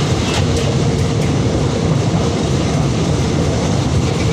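A moving train's steady running noise: a low rumble of wheels on rails with a faint steady hum and a few light clicks.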